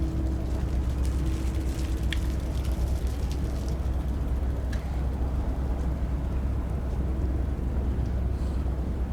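Airbus A321neo airliner approaching to land, heard as a steady low rumble with a faint hum that comes and goes.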